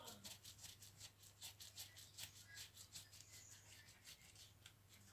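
Faint handling noise: quick, irregular clicks and light rubbing, several a second.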